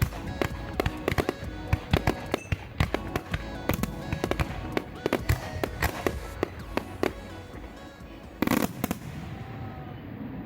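Fireworks shells bursting in rapid succession, a dense run of sharp bangs and crackles for about seven seconds, then one last loud burst about eight and a half seconds in. Background music plays throughout.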